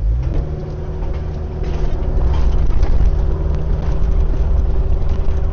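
Kubota U55-4 mini excavator's diesel engine working under hydraulic load as it smooths the driveway. It picks up just after the start and grows louder about two seconds in.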